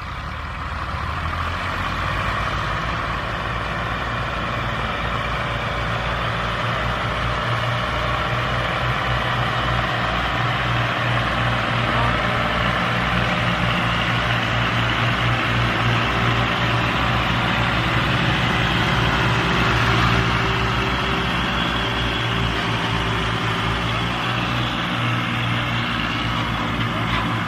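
Massey Ferguson 240 and Ghazi tractors' diesel engines running hard under load in a tractor power contest. The sound is loud and steady, swelling slightly around the middle.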